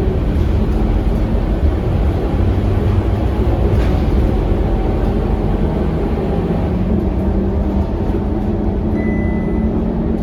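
Scania K230UB bus's five-cylinder diesel engine running steadily while the bus is under way, its low engine note mixed with road noise. A short high beep sounds near the end.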